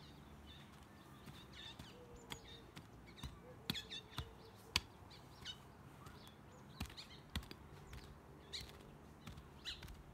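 Small birds chirping and calling over and over, with a handful of sharp knocks scattered through; the loudest knock comes a little under five seconds in.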